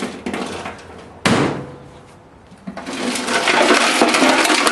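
Loose steel bolts and nuts inside a motorcycle gas tank: a sharp clank about a second in, then from about three seconds a dense continuous rattle as the hardware tumbles around inside the steel tank.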